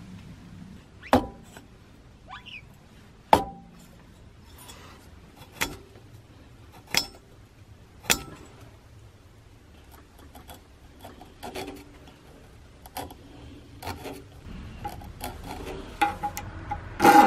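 Handling of hand tools and metal parts while working on a small generator: separate sharp clinks and knocks a second or two apart, with fainter clicks and rubbing between them.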